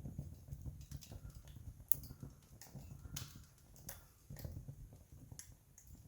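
Wood campfire crackling: irregular sharp pops and snaps over a low, steady rumble of burning, with the sharpest snap about two seconds in.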